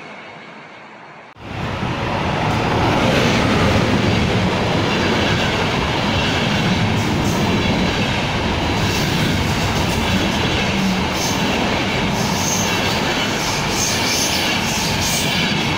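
Train passing on the rails: for the first second and a half a freight train of empty flat wagons rolls by more quietly, then, after an abrupt jump, ÖBB passenger coaches run past close by with a loud, steady noise of wheels on rails and faint clicks high up.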